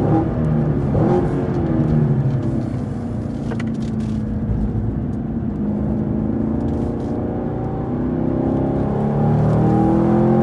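Chevrolet Camaro SS 1LE's V8 engine running at speed. The engine note falls over the first few seconds, then climbs again toward the end as the car accelerates. There is a sharp click about three and a half seconds in.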